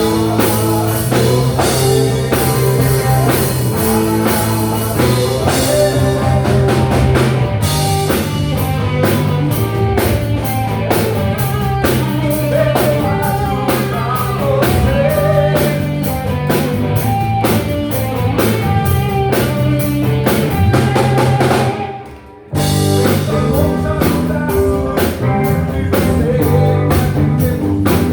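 Live rock band playing: drum kit, electric guitar and bass, with a melodic lead line in the middle. About 22 seconds in the band stops together for a brief break, then comes straight back in.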